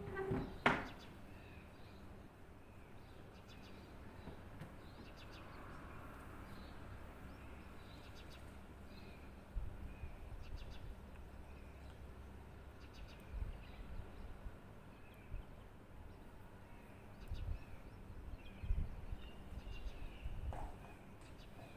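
Small birds chirping, with short calls repeating all through. A sharp knock comes under a second in and is the loudest sound. Low rumbling bumps come and go through the second half.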